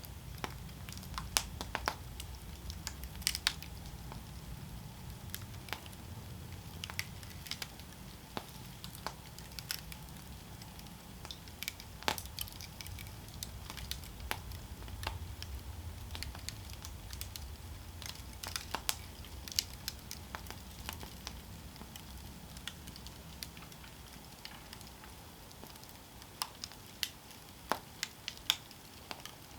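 Campfire burning with irregular sharp crackles and pops of wood over a low rumble of the flames, which eases off near the end.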